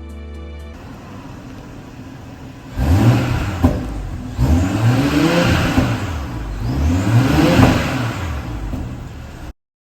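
BMW X6 xDrive40i's turbocharged 3.0-litre inline-six revved about three times through the exhaust, pitch rising and falling with each blip, then cutting off abruptly near the end.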